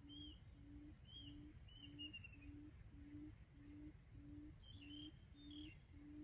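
Faint quail lure call: a low hooting note repeated steadily, a little under twice a second. Short bird chirps come in the first couple of seconds and again near the end, over a faint high pulsing trill.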